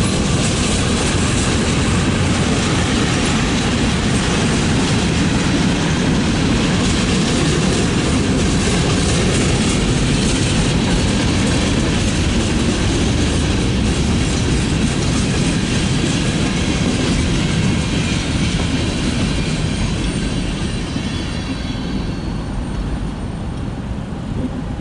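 Freight train cars rolling past on the rails: a steady rumble with the wheels clicking over rail joints, dying away near the end as the last car goes by.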